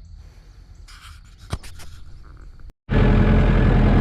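Faint background with a few light clicks, then, after a sudden cut about three seconds in, a Landtrac 450 tractor's engine idling loudly and steadily.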